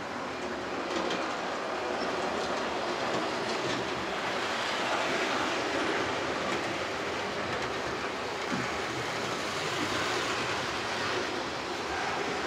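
00 gauge model train running along the layout's track: a steady rolling rattle of small wheels on rail, with faint clicks.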